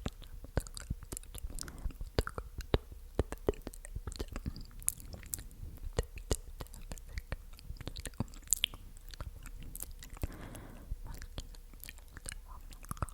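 Wet, sticky mouth sounds made close to the microphone: a quick, irregular run of tongue and lip clicks and smacks, with a soft breathy stretch near the end.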